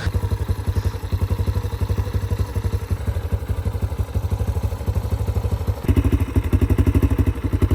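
A 2024 dirt bike's engine idling with an even, fast pulse; it gets a little louder about six seconds in.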